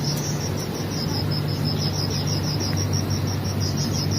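Crickets chirping in rapid, evenly spaced pulses, steady throughout, over a low steady hum and a soft haze of noise.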